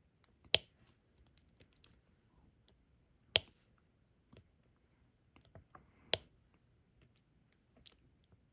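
Diamond painting pen tapping resin drills onto the adhesive canvas: three sharp clicks spaced a few seconds apart and a softer one near the end, with faint small ticks in between.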